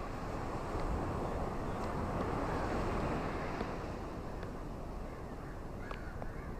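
Ocean waves washing on a shore: a steady wash of surf that swells about a second in and eases off again, with a few faint ticks above it.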